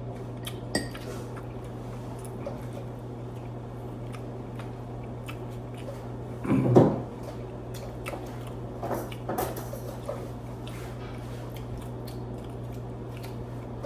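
Indoor room tone with a steady low hum, scattered light clicks and small knocks, and one short louder sound about seven seconds in.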